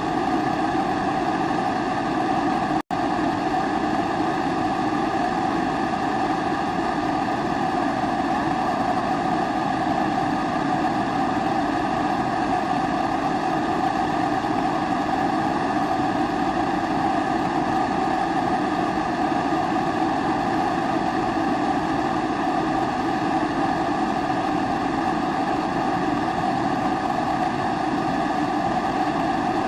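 Pressurised kerosene (Primus-type) stove burner burning with a steady, even rushing noise. The sound cuts out for an instant about three seconds in.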